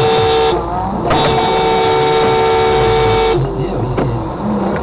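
Car horn blaring in a short blast, then a long held blast of about two and a half seconds, over traffic rumble.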